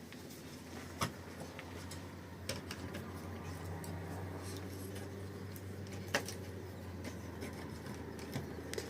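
A low steady hum with three sharp knocks, about a second, two and a half seconds and six seconds in.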